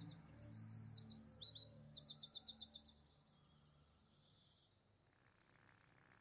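Songbird chirping, ending in a fast trill about two and a half seconds in, over the last of soft music fading out; then near silence.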